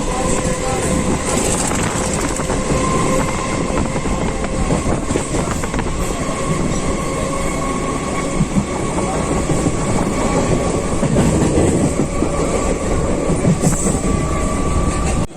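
Electric local train (EMU) running at speed, heard from inside the coach: a steady rumble and clatter of wheels on the track, with a steady whine held under it.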